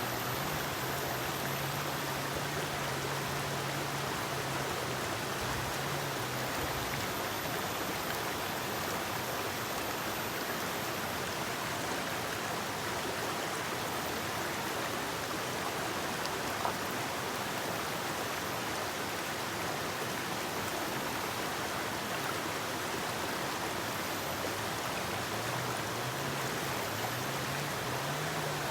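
River flowing steadily: a dense, even rush of water. A faint low drone sits underneath for the first several seconds and returns near the end.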